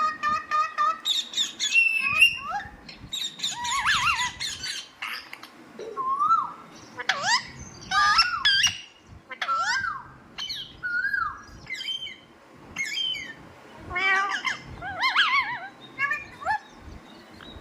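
Pet parrot calling: a long run of short squawks, chirps and whistles that glide up and down in pitch, in clusters with short pauses between, opening with a rapid trill.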